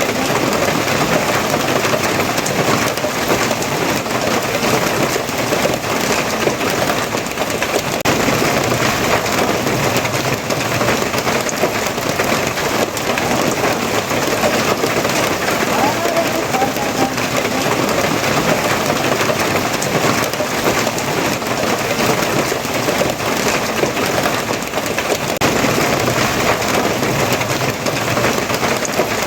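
Steady rain falling, an even unbroken hiss with no separate drops or claps standing out.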